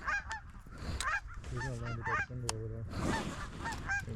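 Geese honking and clucking, many short overlapping calls that run close together, with a lower, longer honk about two seconds in.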